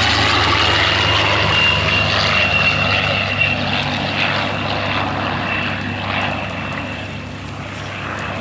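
Rolls-Royce Merlin V12 piston engines of a Spitfire Mk I and a Sea Hurricane Mk Ib flying by as a pair, a steady propeller-aircraft drone. A high tone dips slightly in pitch early on, and the sound fades a little after about six seconds.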